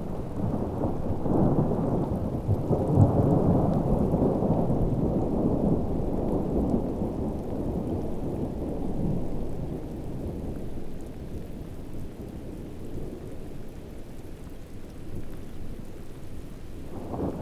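Heavy rain with rolling thunder: a deep rumble that swells in the first few seconds, dies down past the middle, and builds again right at the end.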